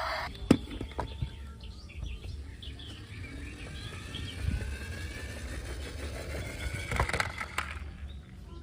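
Faint bird chirps over a low outdoor rumble, broken by a few sharp clicks or knocks.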